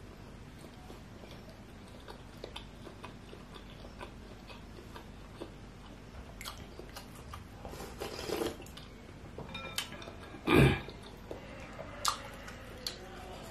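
A person chewing bakso beef meatballs with soft, wet mouth sounds and small clicks. There is a louder short sound about ten and a half seconds in, and a few sharp ticks near the end.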